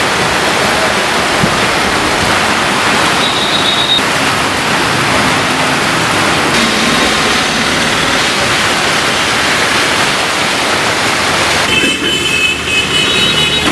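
Heavy rain pouring down in a steady, even rush. Near the end the rush thins and a few faint high tones sound over it.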